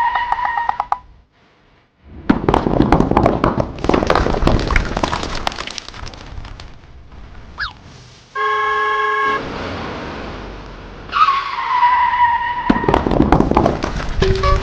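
Cartoon vehicle sound effects: tyres screeching as a vehicle brakes, then engine rumble. A car horn honks once for about a second partway through, and another tyre screech with engine noise follows near the end.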